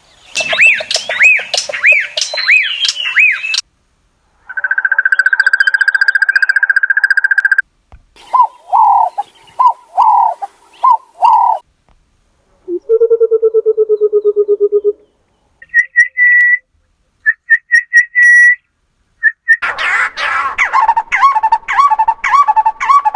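Recorded African bird calls played one after another, six different calls of a few seconds each with short pauses between them: a run of arched notes, a steady high trill, a series of falling whistled notes, a low trill, short repeated whistles, and a busy mix of calls near the end.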